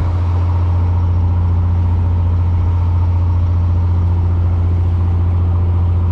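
Fishing boat's engine running steadily: a constant low drone that does not change in level or pitch.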